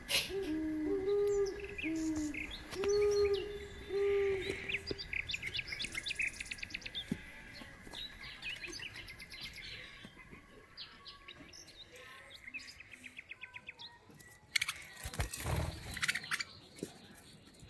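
Pet budgerigars chirping and chattering in quick high notes, with a run of low, arched cooing calls over the first few seconds. A brief loud rustle or thump comes near the end.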